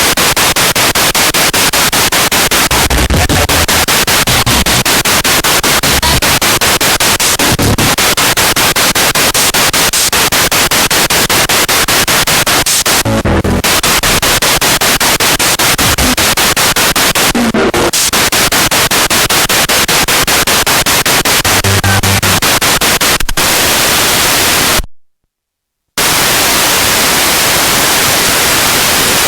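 Spirit box radio sweeping rapidly through stations: loud steady static broken by fast, regular clicks as it steps from channel to channel, with brief snatches of broadcast sound. Near the end the sound cuts out completely for about a second, then the static resumes.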